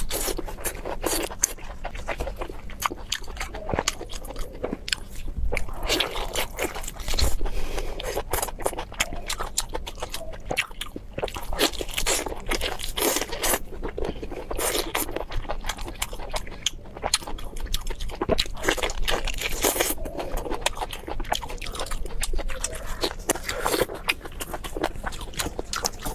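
Close-miked eating of crispy food: a dense, irregular run of crunching bites and chewing crackles.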